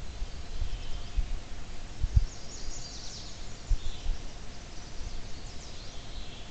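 Faint, distant small-bird chirps over a steady hiss, with irregular low thumps and rumble, recorded through a trail camera's microphone.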